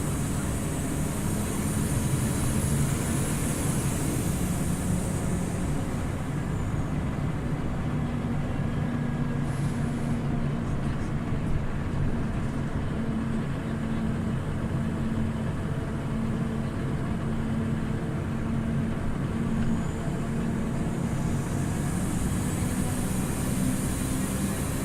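Scania OmniLink CL94UB city bus under way between stops, its engine running steadily over road noise, the engine note shifting a little in pitch as the speed changes.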